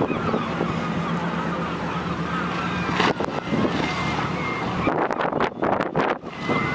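A boat engine running with a steady low hum, heard under wind noise on the microphone, with gusts buffeting the microphone about three seconds in and again near the end; the hum drops away about five seconds in.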